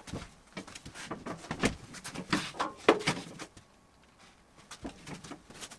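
A run of irregular knocks and clunks, like hard objects or timber being handled and set down, for about three seconds, then a few more knocks near the end.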